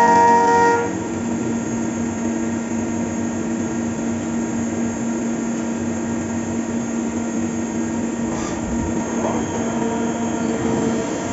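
Fagima Jazz M 5-axis CNC machining centre running a milling cut: a steady hum with several held tones. A louder, higher whine at the start cuts off under a second in.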